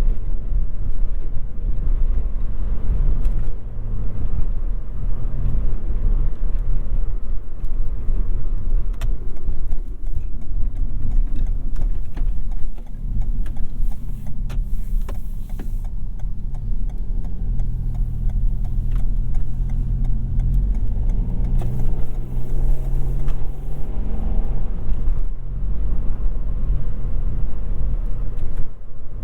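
Toyota Yaris 1.5 Hybrid being driven: a steady low rumble of road and drivetrain, with a steady drone for several seconds past the middle.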